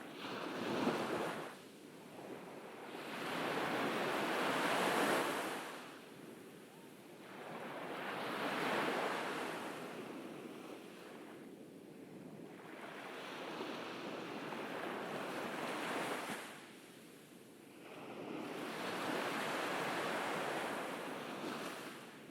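Ocean waves breaking and washing up a beach, the surf rising and falling in slow surges about every four to five seconds.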